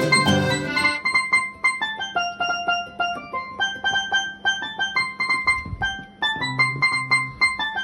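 Electric piano or keyboard playing music. Full chords with a bass line give way about a second in to a melody of short, separate high notes, and low bass notes come back near the end.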